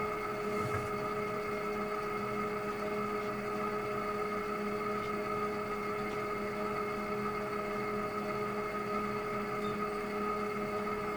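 Electrolux Wascator W355H commercial washing machine running, with a steady whine of several even tones over a low hum.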